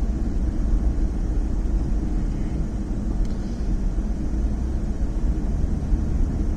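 Steady road and engine noise inside a moving car's cabin, mostly low-pitched and even throughout.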